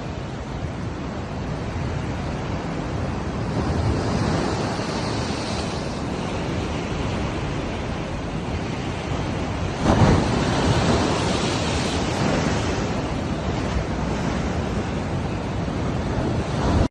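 Ocean surf rushing in swells, with a louder wave breaking about ten seconds in.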